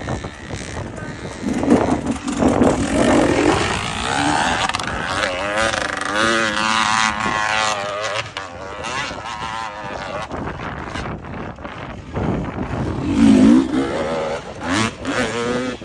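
Enduro dirt bike engine revving hard and unevenly, its pitch rising and falling again and again as the throttle is worked.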